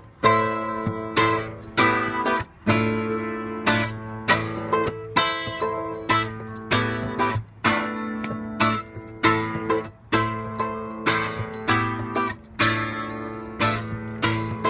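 Instrumental break of a song: acoustic guitar strumming chords in a steady rhythm, with no singing.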